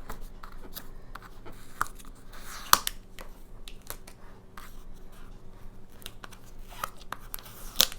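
Hands picking at and tearing packing tape on a cardboard box: scattered scratches and sharp clicks, the loudest a little under three seconds in and again just before the end.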